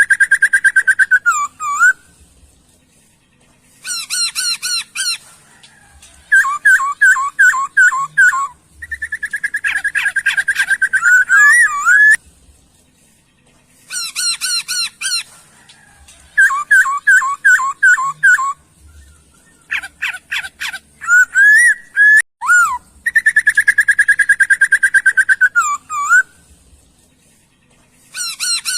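A songbird singing in loud bouts of a few seconds, with rapid repeated chirps, trilled notes and whistles, and short silent pauses between the bouts.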